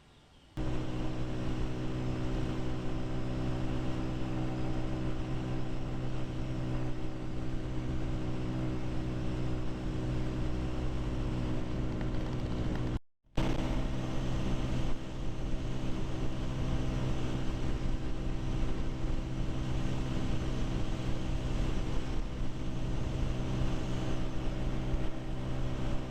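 Honda CG 125's single-cylinder four-stroke engine running at a steady, unchanging pitch while riding, over a haze of wind and road noise. The sound starts abruptly and drops out for a moment about halfway through.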